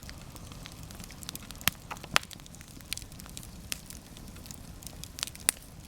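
Tall wood campfire burning: a steady low rush of flame with scattered sharp crackles and pops.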